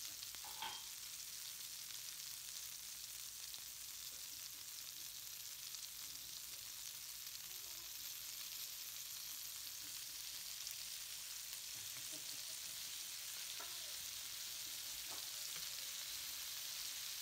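Seasoned chicken tenders frying in oil in a nonstick skillet: a steady, even sizzle of hot oil.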